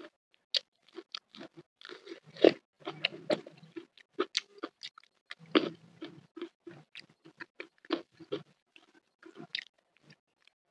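Close-miked eating sounds: a person biting and chewing crunchy food, with irregular crisp crunches, loudest about two and a half and five and a half seconds in.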